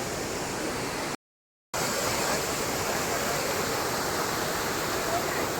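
Steady rush of falling water from the Dassam Falls waterfall, cut by a sudden half-second dropout to silence about a second in.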